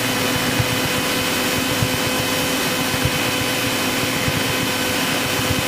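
Cessna 172's piston engine and propeller droning steadily inside the cabin on final approach with 20 degrees of flap.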